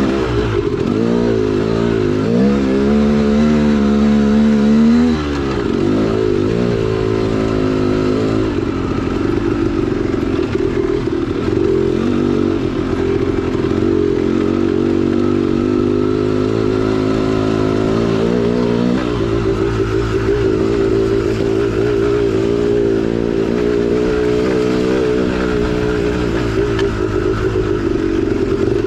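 2010 KTM 300XC-W two-stroke dirt bike engine running under throttle on a trail ride. The revs climb and hold for a few seconds, drop sharply about five seconds in, then run fairly steady with small rises and falls.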